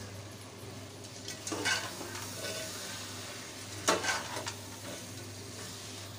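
Masala sizzling in a metal pot on the stove as green peas go in and a steel spoon stirs them through. The spoon clinks and scrapes against the pot about a second and a half in and again, loudest, about four seconds in.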